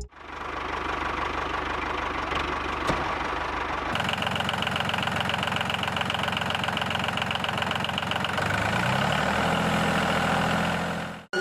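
A small engine runs steadily, changing abruptly about four seconds in, with its pitch rising over the last couple of seconds.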